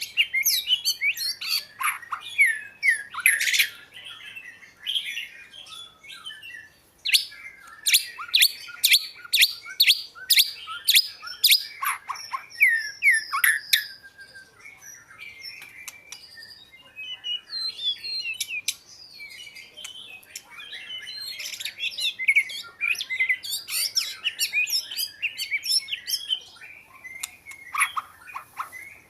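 Oriental magpie-robin singing a varied song of quick sliding whistles and sharp chirps in rapid runs, with sparser stretches between the runs.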